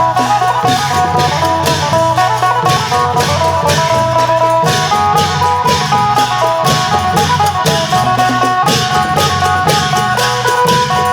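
Isan klong yao long-drum band playing, with a phin lute plucking a busy repeating melody over steady low drumming and regular sharp percussion strokes.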